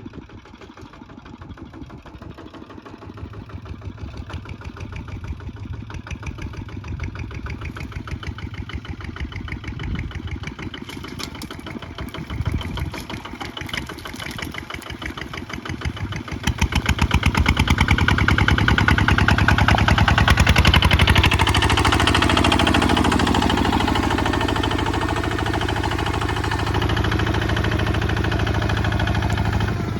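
Kubota ZT155 single-cylinder diesel engine running with an even, rapid chugging beat. About sixteen seconds in it speeds up and gets louder, and stays at the higher speed.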